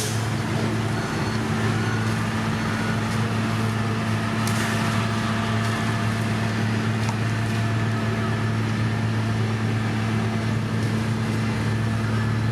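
Heavy construction machine's diesel engine running steadily with a constant low drone, with a faint short hiss about four and a half seconds in.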